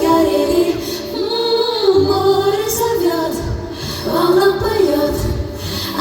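Women's voices singing a pop song live over a backing track, the melody held in long, wavering sung lines.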